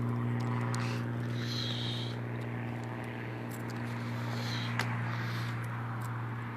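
A steady low mechanical hum with an even pitch, with a faint sharp click a little before five seconds in.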